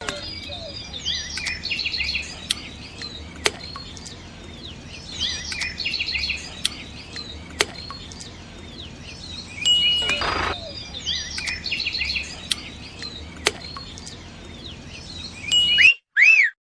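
Small birds chirping in short bursts that recur every few seconds, with a few sharp clicks in between and a brief rush of noise about ten seconds in.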